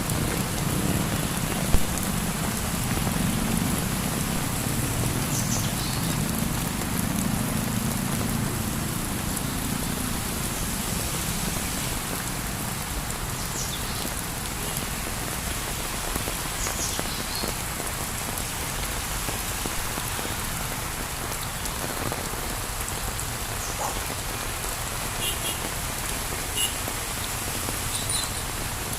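Heavy rain falling steadily, an even hiss with scattered drop ticks. A low rumble fills the first several seconds and fades away, and there is a single sharp knock about two seconds in.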